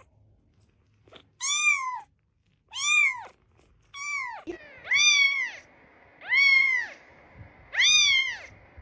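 A cat meowing six times in a row, each meow about half a second long and high-pitched, rising and then falling.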